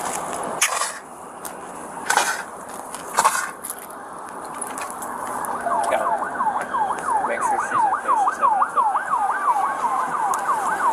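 An emergency vehicle's siren in fast yelp mode, sweeping up and down about four times a second, comes in about five seconds in and grows louder as it approaches. Before it there are a few short bursts of noise.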